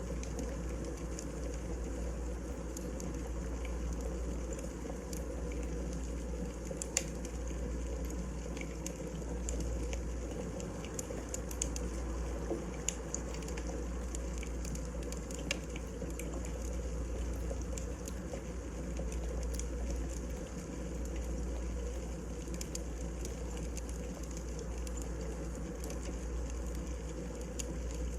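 Wood fire crackling: a steady low rumble under many small scattered snaps and pops, with a few sharper ones.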